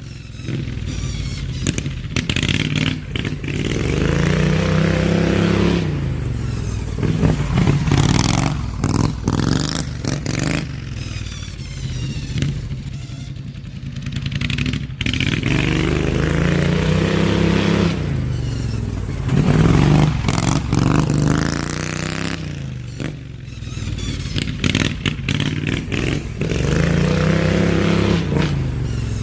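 Briggs & Stratton V-twin engine of a hot-rodded Craftsman LT2000 riding mower, accelerating and easing off again and again as it drives laps, its exhaust note rising and falling in pitch about four times. A clattering, scraping noise runs under the engine.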